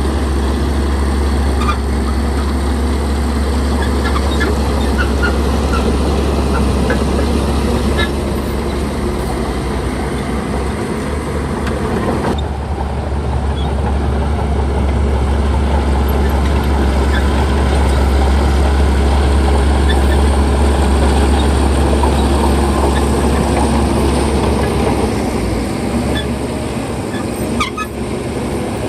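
Heavy diesel earthmoving machinery running steadily under load, with a strong low engine drone and dense mechanical noise. A few short, high chirps sound in the first several seconds, and the sound changes abruptly about twelve seconds in.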